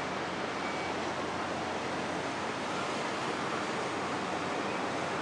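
Steady rushing noise of wind and sea, even and unchanging.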